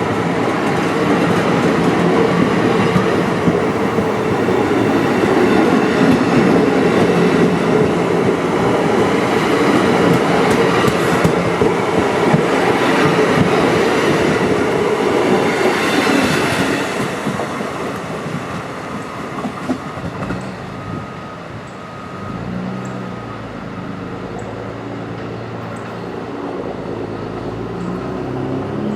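A train running past on the tracks, loud with a steady hum for about the first 17 seconds. It then dies down to a quieter, lower drone.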